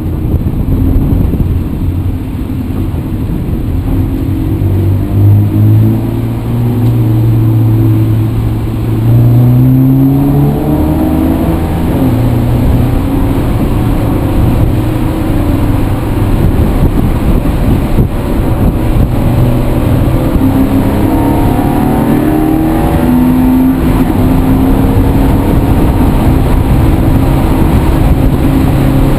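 Motor vehicle engine running under load over heavy low rumble. Its pitch rises and shifts as it accelerates, twice.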